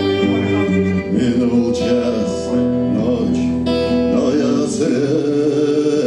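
Strummed acoustic guitar with a wavering melody line over it, an instrumental passage of a song.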